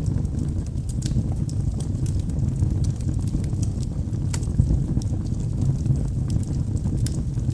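Wood fire burning in a fireplace: a steady low rumble of flames with a few scattered sharp crackles and pops from the burning logs, the clearest about four seconds in.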